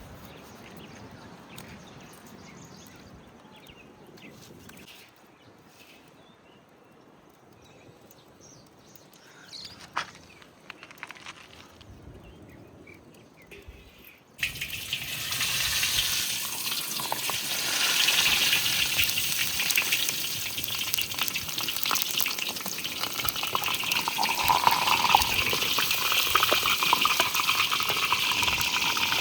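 A quiet stretch with a few knocks, then about halfway through a loud sizzling starts suddenly and keeps on: food going into hot oil and frying.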